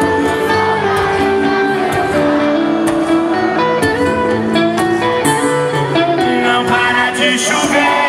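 Live sertanejo band music in a passage without sung lyrics, led by guitar.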